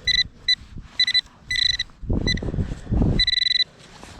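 Metal detector pinpointer beeping over a buried target: short repeated beeps of one high pitch, a few held longer. From about two seconds in, dirt and grass are scraped and rustled as the soil clump is worked apart.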